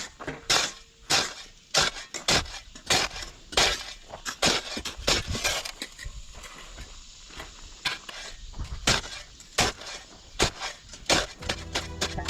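Rapid, irregular scrapes and strikes of hand tools such as shovels and rakes working dirt, gravel and weeds, roughly one to two a second. Background music comes in near the end.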